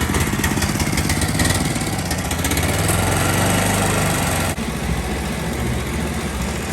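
Small petrol engine of a long-tail boat motor running under throttle in a thrust test, its revs swelling briefly about three seconds in, with a sudden break in the sound a little later.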